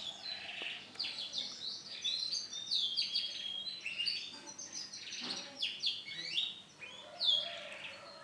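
Male domestic canary singing: a continuous song of rapid chirps and trills, with quick up-and-down notes.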